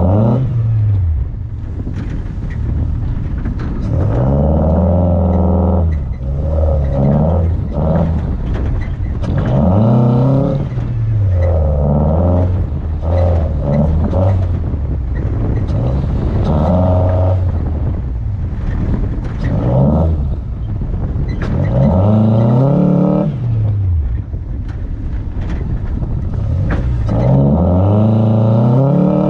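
2000 Toyota RAV4's four-cylinder engine driven hard on a dirt course, revving up and dropping back over and over, its pitch rising under throttle and falling off every few seconds.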